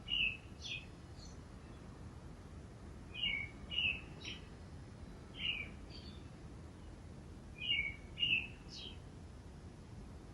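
A small bird chirping: short calls in groups of two or three, repeated every two seconds or so, over a steady low background noise.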